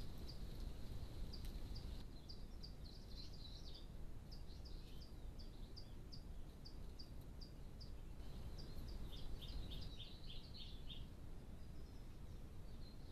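A bird calling in a string of short, high chirps, about two or three a second, that turns into a quicker, busier run about nine seconds in, over a steady low background hiss and rumble.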